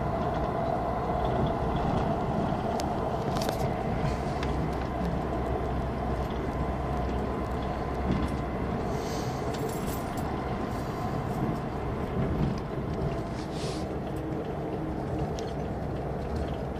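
Cabin noise of an Airport Railroad express train running at speed: a steady rumble of wheels on rail with a low hum and a few faint clicks.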